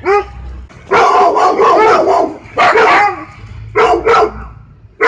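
Siberian husky barking in a series of calls. One short bark comes at the start, a dense, continuous run of barks follows about a second in, then two pairs of short barks.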